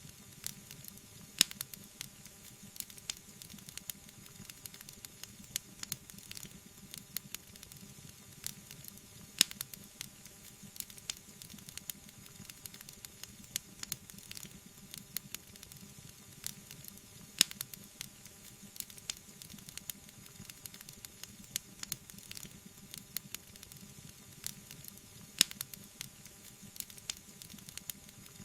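Wood fire burning, with frequent small crackles over a low steady hiss and a few louder pops several seconds apart.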